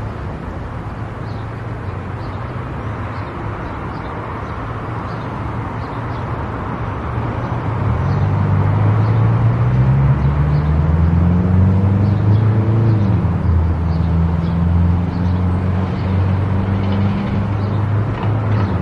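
Car driving on an expressway: steady road and tyre noise with a low engine hum. About eight seconds in, the hum grows louder and rises in pitch, then holds steady.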